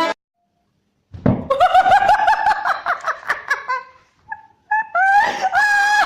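High-pitched, rhythmic laughing in quick repeated pulses, starting about a second in after a short silence, breaking off briefly near the four-second mark and then resuming.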